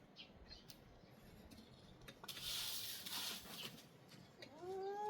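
Faint clicks and rustling, with a burst of hissing noise midway. Near the end a person breaks into a drawn-out wailing cry that rises in pitch and then holds.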